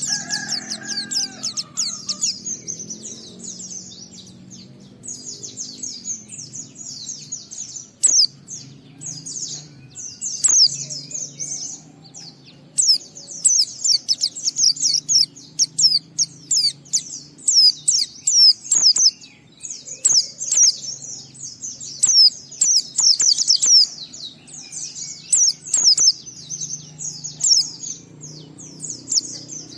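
White-eye (pleci) singing a long, fast, nearly unbroken run of high chirps and trills, the continuous 'ngalas' style of song, with a few short pauses and some sharp clicks in between.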